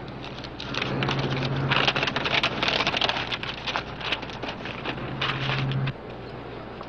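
A paper map being unfolded and handled, with irregular rustling and crackling, over a steady low hum that cuts off near the end.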